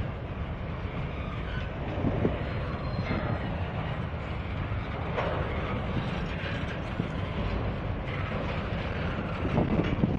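Double-stack intermodal well cars rolling slowly past: a steady low rumble of steel wheels on rail, with scattered irregular clanks and knocks from the cars as the train gets underway.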